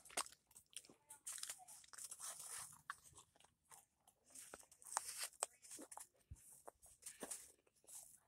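Close-up chewing and biting by someone eating, with many short crunches and mouth clicks scattered through.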